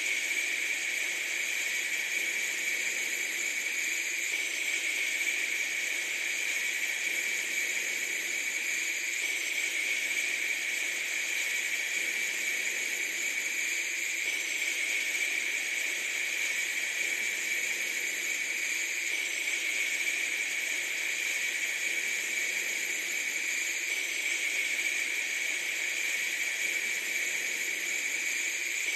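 Steady, unchanging hiss with no breaks or events, thin in the low end and strongest in a sharp, bright band.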